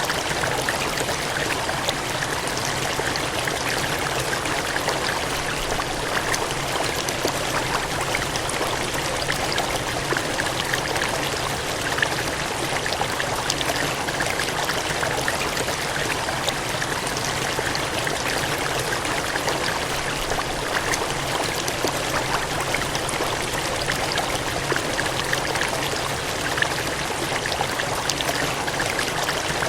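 Water gushing and cascading in a steady, unbroken rush, with many small splashes over the top.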